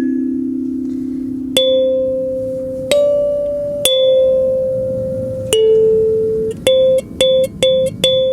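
Haru mahogany kalimba played as a slow melody: single plucked tines, each note left ringing for a second or more, then a quicker run of short notes near the end.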